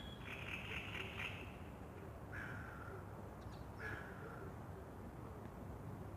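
Wild birds calling at dawn beside a lake. A quick run of high chirps comes in the first second, then two harsher single calls about a second and a half apart, over a steady low background rumble.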